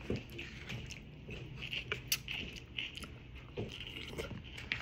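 A person chewing food close to the microphone, with small wet mouth clicks and smacks scattered throughout.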